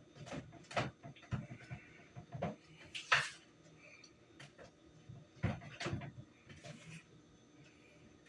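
Irregular knocks and clicks of a utensil against a mixing bowl as cake batter is stirred by hand, with a sharper scrape about three seconds in.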